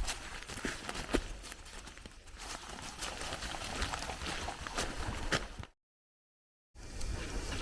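Footsteps on a wet, muddy trail, irregular knocks over a steady wet hiss; they cut off suddenly about five and a half seconds in, and after a second of silence a steady hiss takes over.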